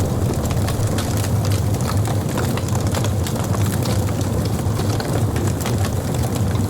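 Steady storm noise: a continuous low rumble with a dense patter of rain.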